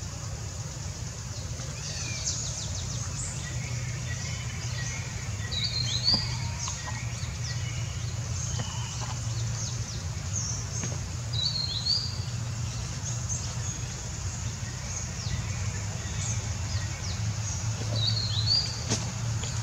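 Birds calling and chirping in the surrounding trees, one short sharp call repeating three times, over a steady low hum.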